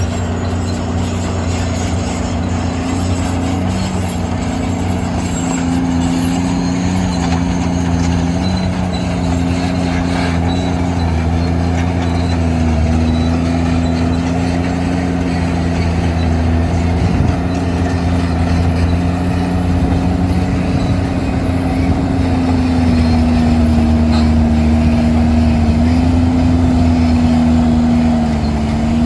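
Crawler dozer's diesel engine running steadily, its pitch shifting slightly up and down as engine speed changes.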